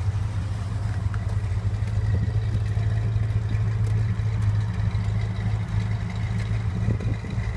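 Rebuilt Ford 289 four-barrel V8 of a 1966 Mustang GT fastback idling steadily, heard at the twin rear exhaust tips; the engine purrs, with an even, smooth idle.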